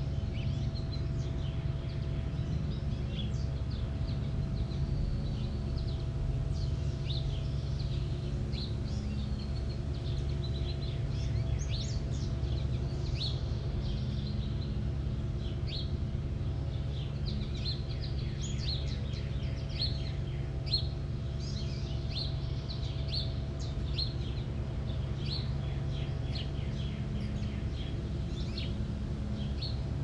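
Small songbirds chirping and twittering in many short, quick calls, busiest in the second half, over a steady low rumble with a faint hum.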